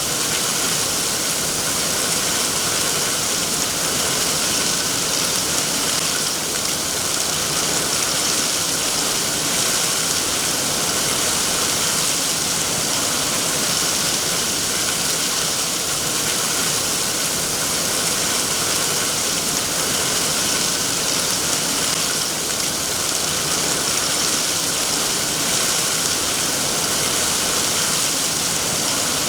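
Steady, even rain, a constant hiss with no breaks or distinct drops standing out.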